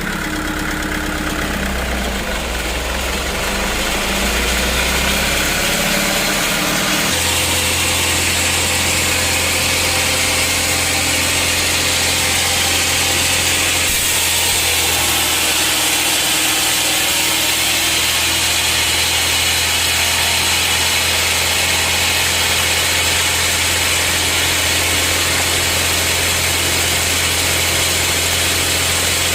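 Sawmill saw machinery running steadily, a continuous machine hum with a broad hiss; about seven seconds in it changes to a steadier low hum with a stronger hiss as the saw works through hard teak.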